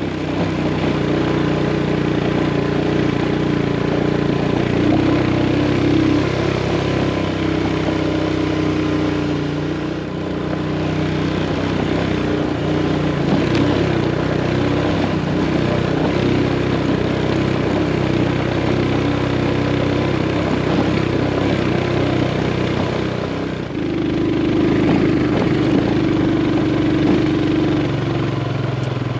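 Motorcycle engine running under load on a steep, rough climb, its pitch rising and falling several times with throttle and gear changes.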